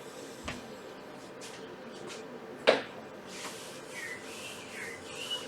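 Quiet classroom with one sharp tap about two and a half seconds in, then faint, high, wavering whistle-like tones near the end.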